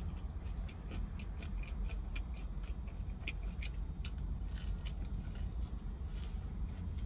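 Close-up eating sounds of a fried chicken wing being bitten and chewed: many short wet clicks and smacks of the mouth, scattered irregularly, over a steady low rumble.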